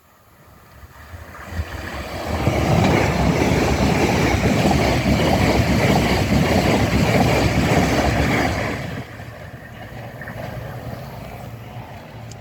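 Train passing over a level crossing at speed: the rumble builds over about two seconds, stays loud with a rapid clatter of wheels on the rails for about six seconds, then drops sharply about nine seconds in to a lower rumble as it draws away.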